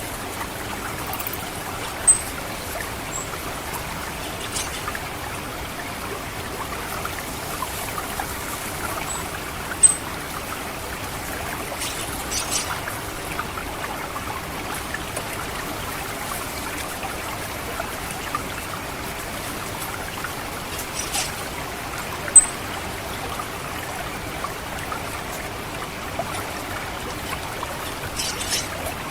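Water trickling and gurgling steadily through a rice paddy. A few short, sharp, high-pitched 'cit' calls of an orange-headed thrush sound over it, the loudest about 10 s and 22 s in.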